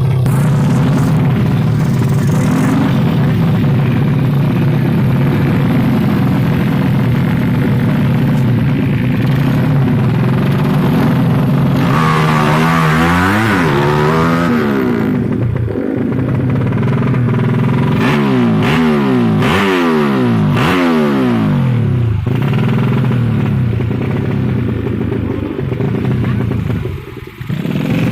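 Motorcycle engines running loudly, with several engines revving so that their pitches sweep up and down and cross each other, first in the middle and again a few seconds later.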